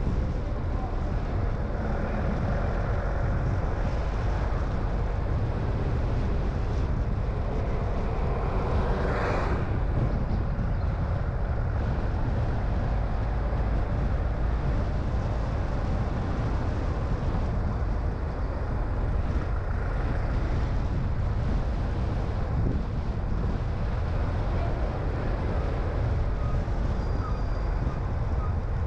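Steady low road and engine rumble of a car being driven, with wind noise, heard from the car. About nine seconds in, a brief, brighter swish rises and then cuts off.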